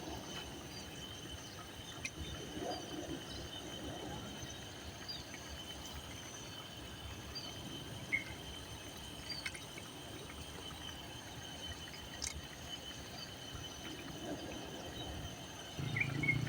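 Quiet outdoor nature ambience: a steady high-pitched drone with scattered short chirps over a faint hiss. A louder low hum comes in near the end.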